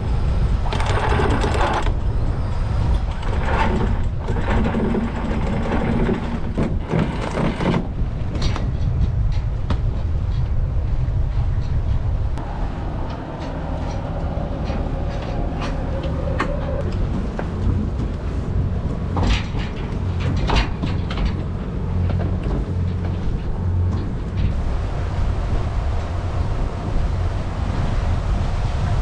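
A sailing yacht's engine running hard, a steady low drone under the rush of wind and water, with a couple of sharp knocks about two-thirds of the way through.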